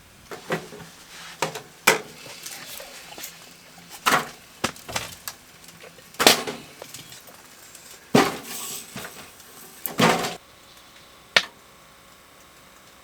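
A series of irregular sharp knocks and clatters, about a dozen, spaced unevenly with short rattling tails.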